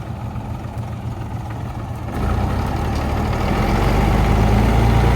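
Truck engine running steadily, growing louder and fuller about two seconds in as it is worked harder or comes closer.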